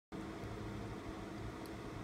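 Steady low hum with faint hiss: background room noise, with no distinct events.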